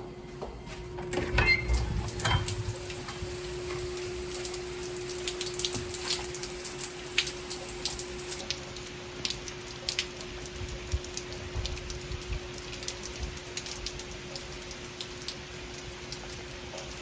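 Heavy rain falling, with many individual drops striking hard surfaces close by. A short louder bump and clatter of handling comes about a second in, and a faint steady hum runs underneath.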